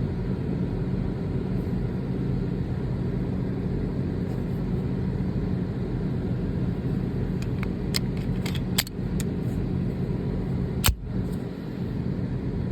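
Steady low hum of an idling engine, with a few light clicks about eight seconds in and one sharp crack near eleven seconds.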